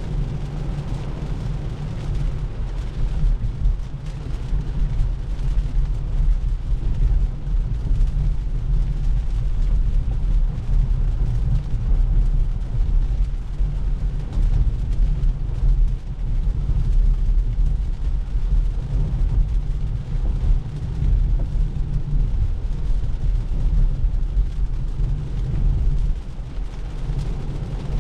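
Continuous low rumble of road and tyre noise inside the cabin of a 2024 Tesla Model 3 driving on rain-wet roads, with no engine sound from the electric drivetrain.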